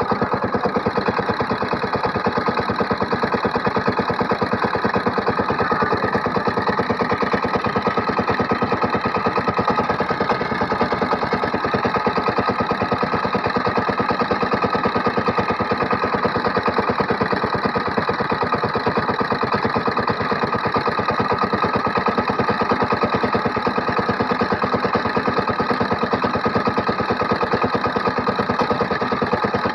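Single-cylinder diesel engine of a SIFANG power tiller running steadily at an even speed, with a rapid, regular beat from its firing.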